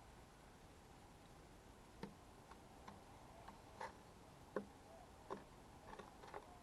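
Irregular light taps and clicks, about a dozen of them starting about two seconds in, over a faint steady hiss: small birds pecking and landing at a feeder.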